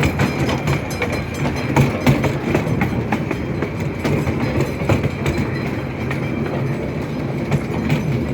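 Train rolling along the track: a steady rumble with irregular clicks and clacks of the wheels over the rails, and a faint steady high tone.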